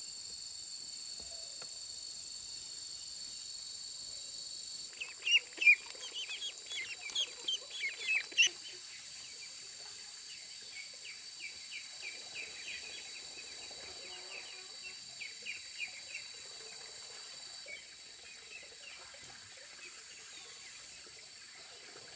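Birds chirping: a dense flurry of quick, falling chirps starts about five seconds in and lasts a few seconds, then thins to softer scattered chirps, over a steady high insect drone that fades near the end.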